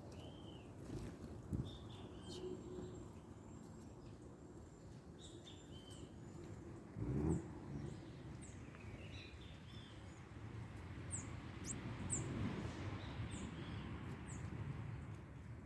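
Small birds chirping at a feeding spot: short chirps through the first half, then a run of quick, very high notes from about eleven seconds in, over steady outdoor background noise. A brief thump about seven seconds in is the loudest thing.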